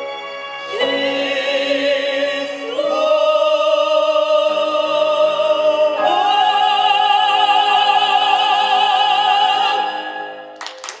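Classical-style singing with orchestra: a few long sustained notes with vibrato, climbing, the last and loudest held several seconds before ending near the close, with applause breaking out right after.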